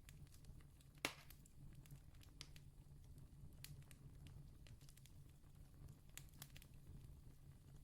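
Faint campfire crackling: scattered small pops and one louder snap about a second in, over a low steady rumble.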